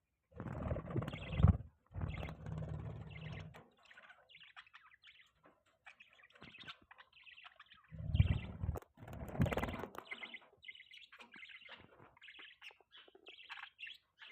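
Budgerigars chirping and chattering in quick, high, broken notes. Several louder bursts of low rustling noise cut in near the start and again about eight seconds in.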